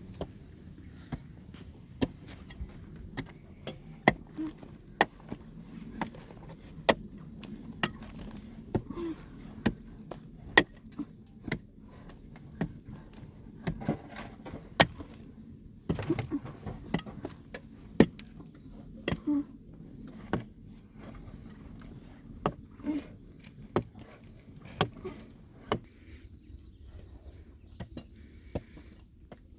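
Sharp knocks or taps at roughly one a second, over a low steady hum.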